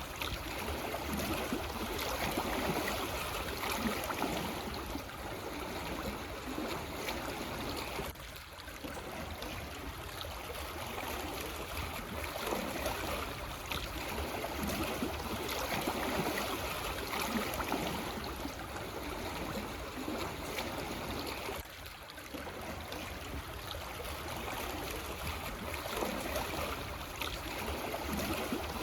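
Calm small waves lapping and washing against black stones on a shoreline: a steady wash of water, dipping briefly twice.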